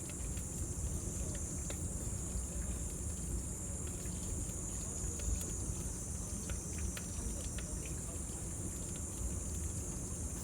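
Cicadas droning in a steady high-pitched band over a crackling bonfire, with scattered sharp pops from the fire and a low rumble underneath.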